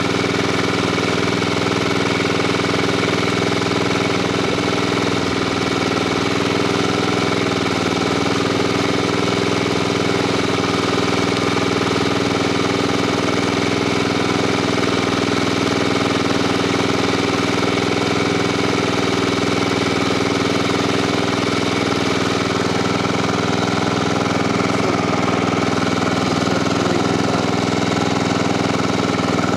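Honda E1500 portable generator's engine running at a steady speed.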